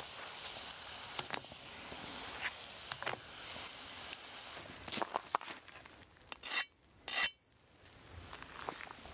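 Food sizzling faintly on a hot cooking stone, with scattered clicks and taps of utensils. About six and a half seconds in come two sharp clinks half a second apart, the second leaving a brief high ring.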